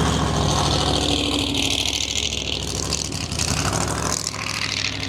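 A drag car's engine idling steadily, close by.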